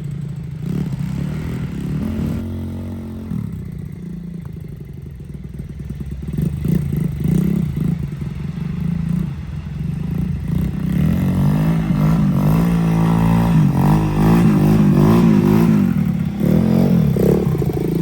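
125cc gas dirt bike engine running and revving, its pitch rising and falling again and again as the throttle is worked, louder in the second half.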